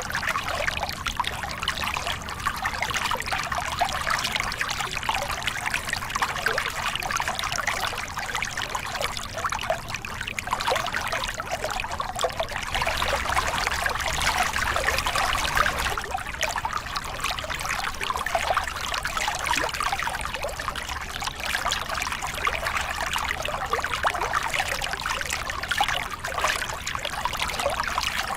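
Small river cascade: water pouring and splashing over rocks in a steady rush, swelling and easing slightly.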